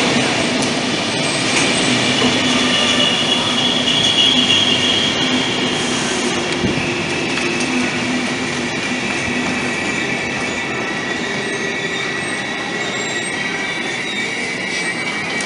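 Passenger coaches of a EuroCity train rolling slowly alongside the platform as it brakes, with a steady rumble and a high-pitched squeal that sits a little lower in pitch as the train slows.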